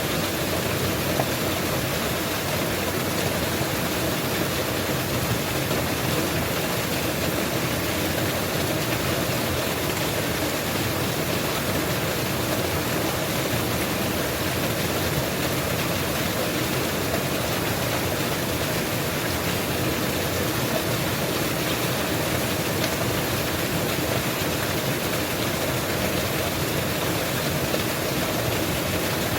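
Mountain waterfall pouring, a steady, unbroken rush of falling water.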